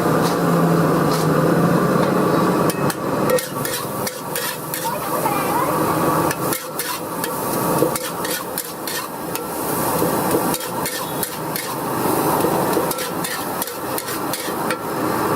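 Metal spatula knocking and scraping against a wok during stir-frying, a fast irregular run of sharp clanks, over a low steady hum at the start and near the end.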